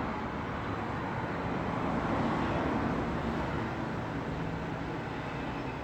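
Road traffic noise: a steady rumble and hiss of passing vehicles, a little louder around two seconds in.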